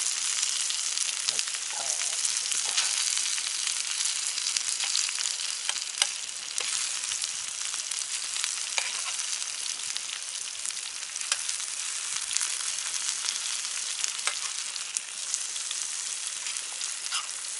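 Food sizzling as it is stir-fried in a pan over a campfire, a steady hiss with scattered clicks and scrapes from the stirring.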